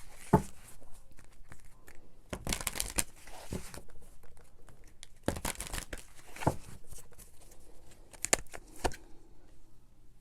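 Paper being handled, rustling and crinkling in irregular bursts with scattered light clicks and taps.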